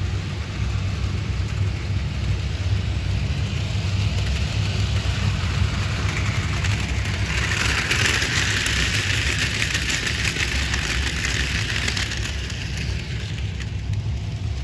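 HO-scale Bachmann Rebecca model locomotive running on its track, with a steady low motor hum and a rattling hiss of wheels on rail. The hiss grows louder to a peak about halfway through as the train comes close, then fades as it moves away.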